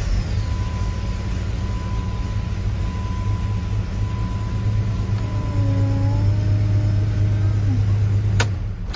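1997 Jeep Grand Cherokee's 4.0 inline six running steadily after a new PCM cured its crank-no-start. The engine cuts off suddenly near the end.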